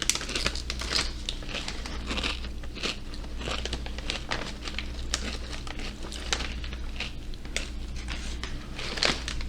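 Chewing a thin, crisp Korean honey and black sesame chip: a run of irregular crunches and crackles.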